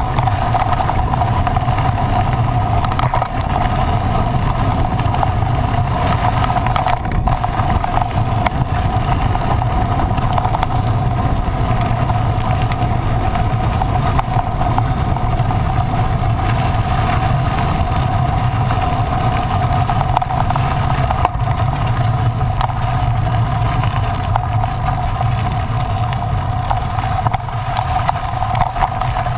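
An engine running steadily at a constant speed, a continuous drone that holds the same pitch throughout.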